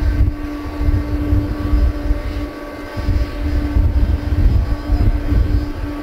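Boeing 777-200 jet airliner's engines running: a deep, wavering rumble with a steady hum over it.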